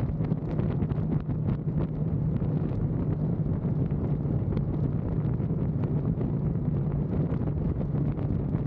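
Motorcycle running steadily at road speed, its engine a constant low hum under heavy wind rush on the microphone.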